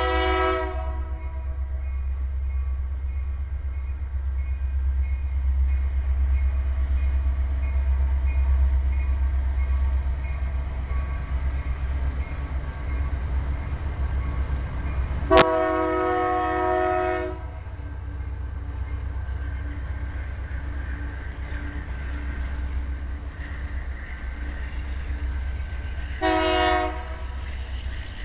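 Union Pacific double-stack intermodal freight train rolling past close by, a steady low rumble from its diesel locomotives and well cars. The locomotive horn sounds three times: the tail of a blast in the first second, a blast of about two seconds midway, just after a sharp click, and a short blast near the end.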